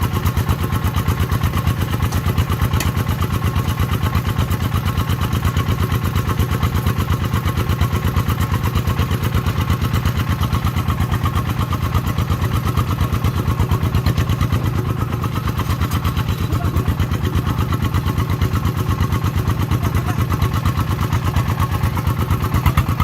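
Farm vehicle's diesel engine running steadily with a fast, even chugging beat.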